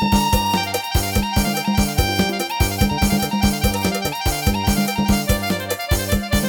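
Yamaha PSR-1000 arranger keyboard playing a Thai procession-style (lai hae) tune: a sustained lead melody over its auto-accompaniment drum beat and bass.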